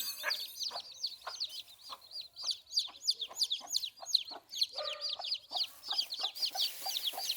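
Chickens calling: a steady stream of rapid, high, thin peeps, several a second, with lower clucks now and then among them.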